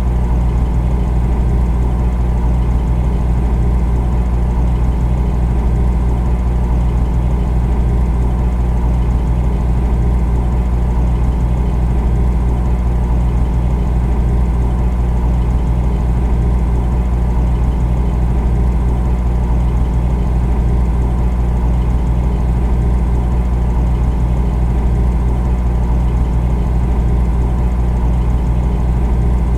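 Refrigerator running with a loud, steady low hum that has a fine, fast flutter to it and a faint hiss above.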